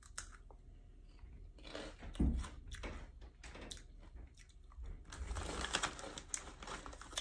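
Cheetos corn puffs being bitten and chewed with a scatter of crisp crunches. Near the end a foil snack bag crinkles as a hand reaches into it.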